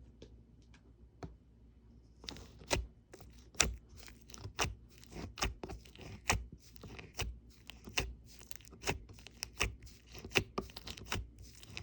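Cement-type slime being squeezed and pressed, giving crisp crackling pops at a steady pace of about one a second, starting about two seconds in after a few faint clicks.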